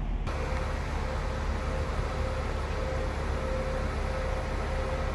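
Train at a station platform: a steady rumble and hiss with a steady mid-pitched hum, starting abruptly a moment in.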